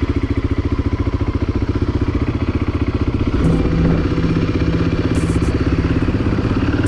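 BMW motorcycle engine running as the bike pulls away and rides off, a steady rapid pulsing, with a new steady tone joining about halfway through as the engine note changes.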